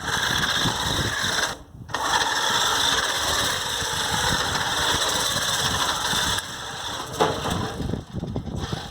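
RC car's motor running with a steady high-pitched noise as the car is driven on paper-taped wheels. The motor cuts out briefly about one and a half seconds in, and it runs quieter from about six seconds on, with a few sharp clicks near the end.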